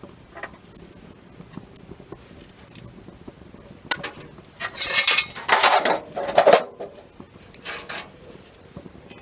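Campfire crackling with faint scattered pops, broken from about four seconds in by a few seconds of loud clattering and scraping.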